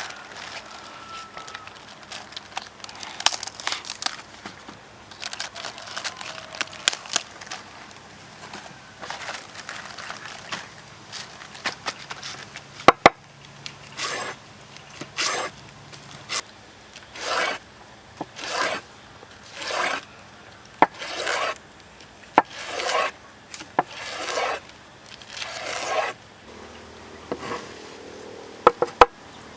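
Hand scraping or rubbing against a rough surface, irregular at first, then settling into regular strokes about one a second through the second half, with a couple of sharp clicks.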